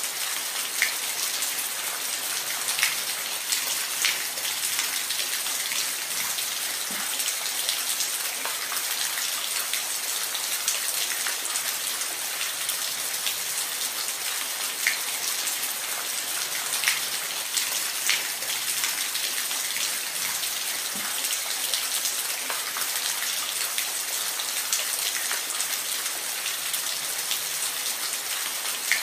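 Steady rain: an even hiss of falling rain with scattered sharp drop hits on a surface.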